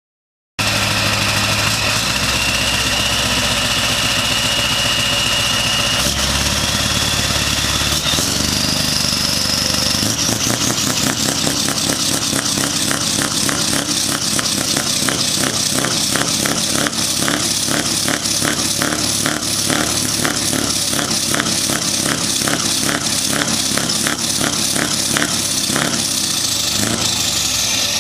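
Scania R500 truck's V8 diesel engine being revved: after a fast idle the pitch climbs from about six seconds in, with a rising whine, holds at high revs, then drops back near the end.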